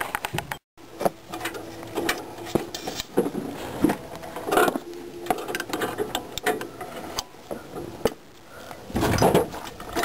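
Irregular metallic clicks, clinks and knocks of hand tools at work on a truck's shock absorber, with a short rattle now and then and a louder cluster of knocks near the end.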